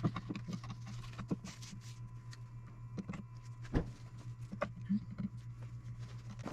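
Scattered light metal clicks and taps as bolts are set into the corners of a planer's gearbox cover, over a steady low hum.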